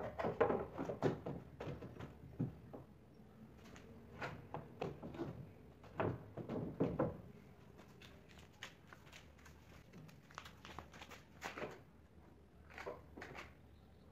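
Irregular wooden knocks and thunks, as of boards being handled and fitted together, in clusters at the start and again around the middle, with scattered sharper knocks near the end.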